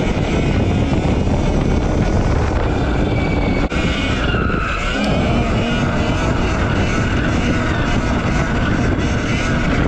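RFN SX E15 Plus electric dirt bike being ridden, with heavy wind noise on the microphone over the motor's faint whine, which dips in pitch and comes back up about halfway through.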